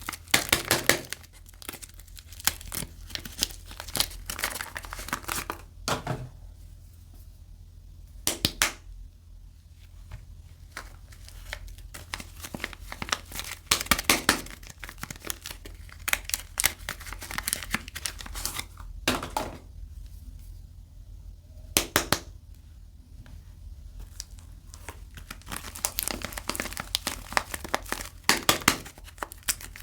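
Soap bar packaging being unwrapped by hand: crinkling of the wrapping and tearing of the packaging in irregular bursts, with short pauses between them.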